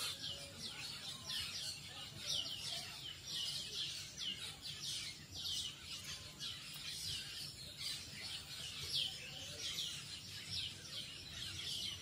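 A flock of small birds calling in a tree canopy: short, shrill notes sliding downward, repeated about two a second and overlapping without a break.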